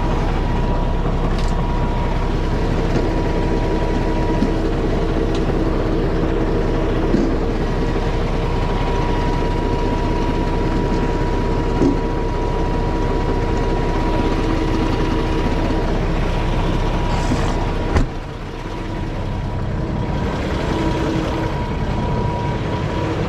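Dump truck's diesel engine running steadily, with a thin steady whine above it. About eighteen seconds in there is a sharp knock, after which the sound is quieter for a few seconds.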